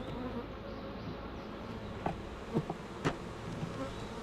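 Honeybees buzzing steadily around an opened hive, a colony stirred up by having its honey super and frames pulled off. A few light taps sound about two and three seconds in.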